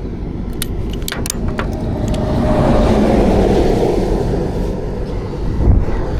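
Highway traffic: a vehicle swells past over a steady road rumble, loudest about three to four seconds in. A few sharp clicks come in the first second and a half.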